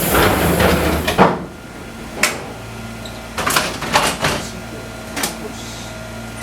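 Fukui Railway 200-series train car with a burst of compressed-air hiss for the first second or so, then a few scattered clicks and clunks over a steady low hum from the car's equipment.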